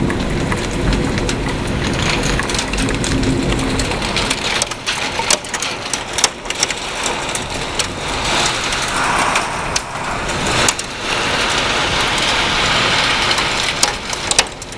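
Heavy thunderstorm rain pouring down, with thunder rumbling low in the first few seconds. From about a third of the way in, scattered sharp ticks of the first hailstones striking join the rain.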